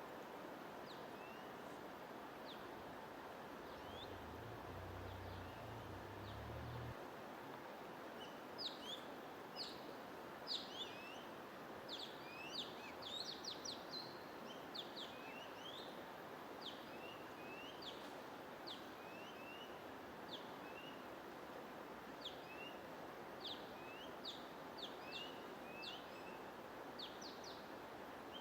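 Small birds chirping in quick, high, downward-sliding notes, sparse at first and busier from about eight seconds in, over a steady even hiss of white noise.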